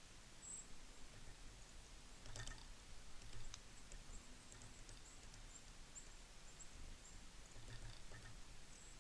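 Faint, very high, thin chips of small birds at a winter feeder, many short calls scattered throughout, with a sharp click about two and a half seconds in and soft low taps.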